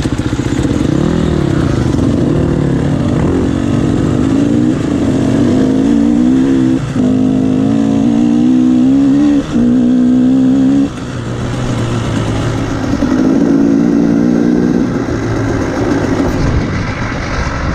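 Motocross bike engine revving and accelerating. Its pitch climbs in stretches, broken by two short cuts about seven and nine and a half seconds in, then drops back around eleven seconds and rises again a little later.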